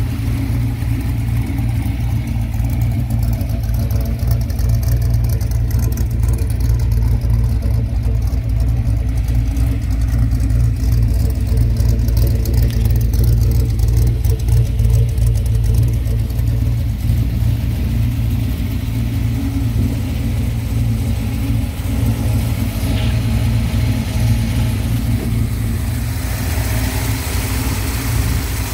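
Early Ford Bronco's small-block V8, with Cobra valve covers, idling steadily. It is a little louder through the middle stretch.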